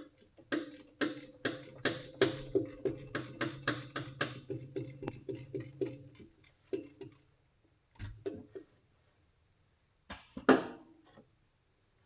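Ratchet wrench clicking in a steady rhythm, about three or four clicks a second for some six seconds, as a 27 mm deep-well socket turns a sensor out of the engine block, followed by a few separate knocks and a louder clatter of tools near the end.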